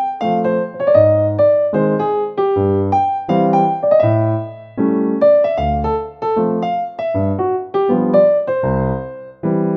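Background music played on piano or electric piano: a steady stream of melody notes over low bass notes, each note struck and fading.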